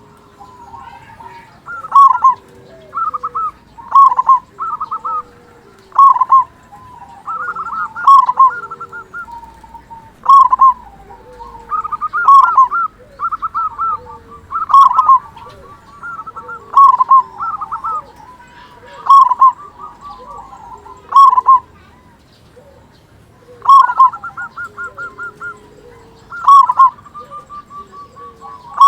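Male zebra dove (perkutut) singing repeatedly. Each song is a loud coo followed by a quick run of short staccato notes, repeated about every two seconds with a brief pause after the middle.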